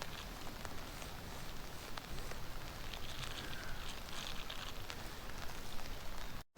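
Steady rain falling, an even hiss with scattered ticks of drops. It cuts off abruptly near the end.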